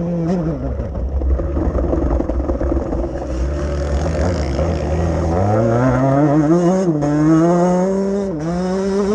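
Motocross bike engine on track: it runs high, falls off throttle into a low rumble for a few seconds, then accelerates with the pitch climbing. Sharp drops in pitch twice mark gear changes.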